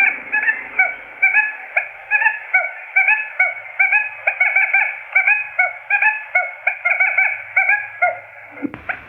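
Quail lure calls: a rapid, continuous series of short, rising chirped notes, several a second, repeated without pause.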